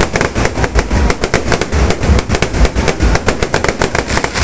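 Fireworks going off in a dense, continuous barrage: rapid crackling bangs many times a second, with deeper booms among them.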